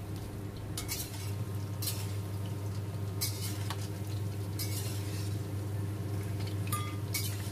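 Battered chicken pieces sizzling in very hot oil in a wok during their second frying, with a metal spatula and wire strainer clinking and scraping against the wok several times as the pieces are scooped out, over a steady low hum.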